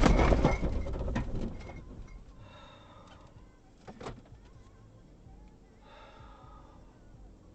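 Car colliding with a pickup truck: a loud crash right at the start, then clattering that dies away within about two seconds, followed by a faint click about four seconds in.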